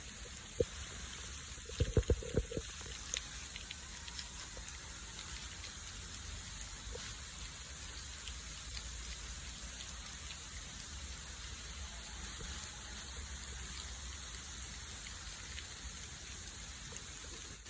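Steady rain falling during a storm, with a short cluster of sharp knocks about two seconds in.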